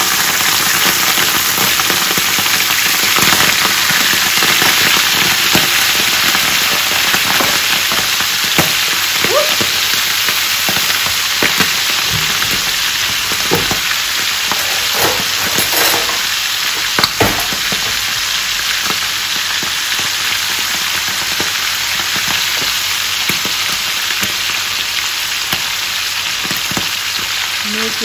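Almond-flour-coated squid rings and seafood deep-frying in a pan of hot oil: a steady, loud sizzle with scattered pops and crackles.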